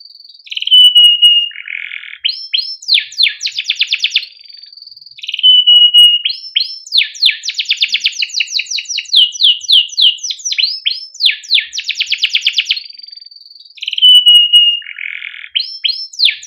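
Domestic canary singing a long, continuous song: fast trills of rapidly repeated chirps alternate with short held whistles and quick downward-sweeping notes.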